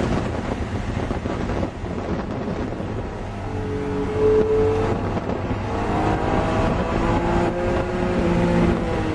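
A car engine and wind noise, heard from inside the cabin as the car is driven at speed on a track lap. For the first few seconds there is mostly a rumbling rush. Then, about a third of the way in, a clear engine note comes in and climbs slowly as the car accelerates.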